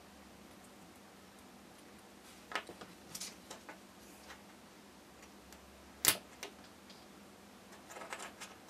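Scattered small clicks and taps of tiny plastic parts and hand tools being handled on a work surface, with one sharp click about six seconds in as the loudest.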